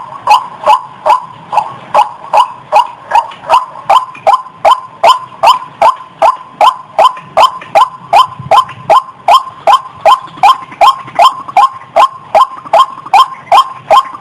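A rail-family waterbird calling in a fast, even series of short, loud notes, about two and a half a second, each sliding slightly down in pitch. The uploader says it is a female in breeding condition.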